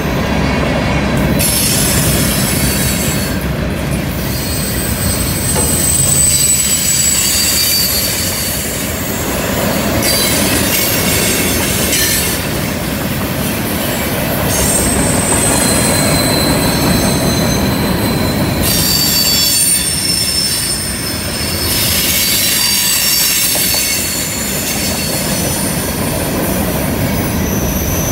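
Freight cars of a heavy train rolling past: a steady rumble of steel wheels on rail, with thin high-pitched wheel squeals coming and going as the cars take the curve.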